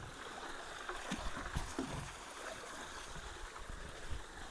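Creek water rushing steadily through a culvert, with a few short knocks between one and two seconds in.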